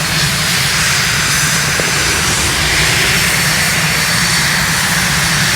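Jet engines of Patrouille Suisse's F-5 Tiger II fighters in flight: a steady rushing noise that swells a little around the middle as the jets pass.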